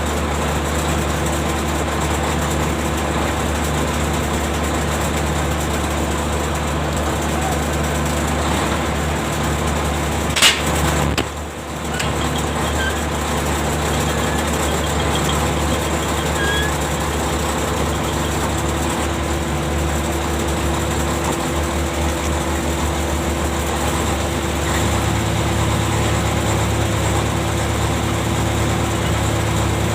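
Ship's machinery running with a steady mechanical hum. A single sharp clank comes about ten seconds in, followed by a brief drop in level, and the low hum changes pitch near the end.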